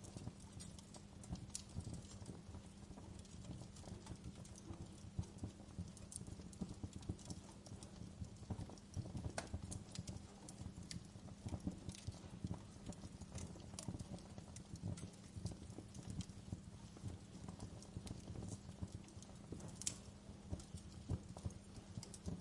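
Wood fire in a fireplace crackling, with irregular pops and snaps over a low steady rumble.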